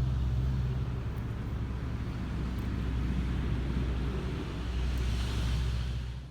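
A motor vehicle's engine running steadily, with road noise, cutting off abruptly near the end.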